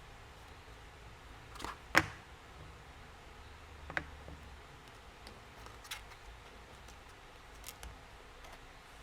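A few sharp clicks and taps from handling journal-decorating materials on a desk, the loudest about two seconds in, over a faint steady background hiss.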